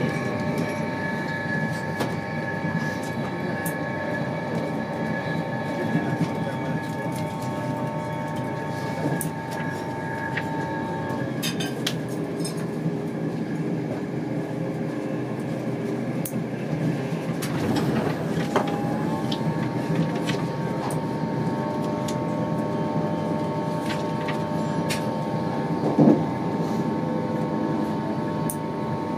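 Inside an InterCity 225 passenger coach running at speed: a steady rumble of wheels on the track with faint steady humming tones. One of the tones drops out for several seconds midway, then returns. There is one short knock near the end.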